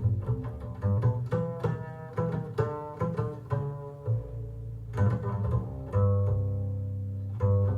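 Instrumental introduction of a recorded song played back through hi-fi loudspeakers and captured in the room: a run of plucked string notes over a strong, deep bass line, with some notes held longer.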